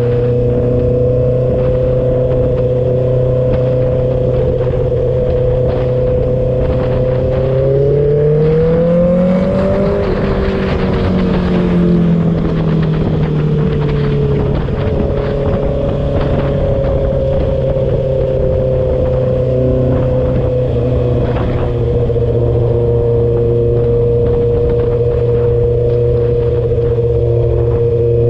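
Honda CB650R's inline-four engine through a straight-through full exhaust with the dB killer removed, cruising at steady revs. About eight seconds in it revs up briefly and the pitch falls back over a few seconds, then it holds steady again.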